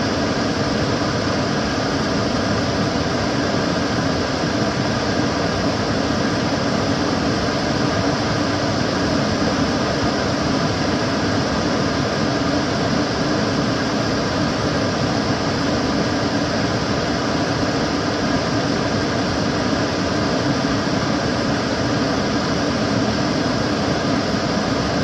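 Kitchen cooker hood extractor fan running steadily: an even rush of air with a low hum, unchanging throughout.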